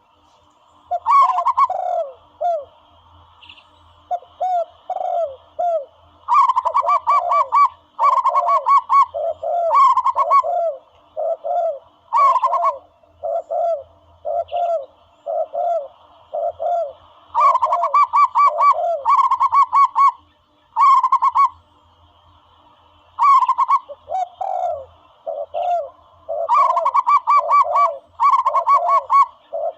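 Zebra dove calling: bouts of rapid staccato cooing notes, alternating with slower, lower falling coos, repeated with short pauses between bouts.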